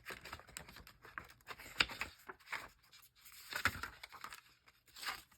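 Paper rustling as a CD's insert booklet is handled and its pages turned, with a few sharper ticks in between.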